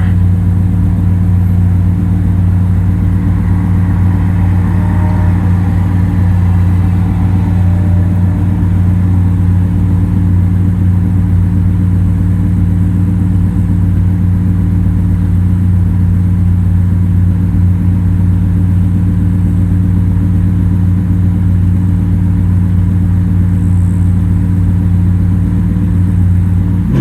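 Ferrari V12 engine running through a custom exhaust, holding a constant, low, even drone with no revving.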